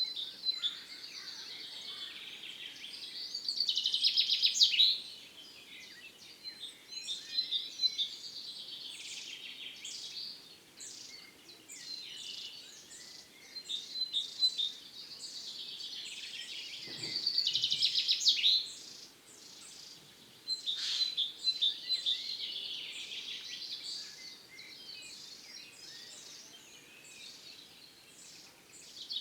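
Songbirds singing and chirping, many quick high phrases and trills overlapping, rising in spells and then easing off.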